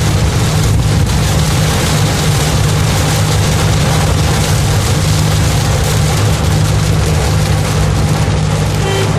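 Heavy rain falling: a loud, steady hiss with a constant low rumble beneath it.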